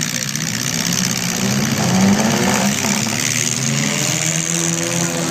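Several demolition derby car engines revving up and down at once, their pitches rising and falling over one another.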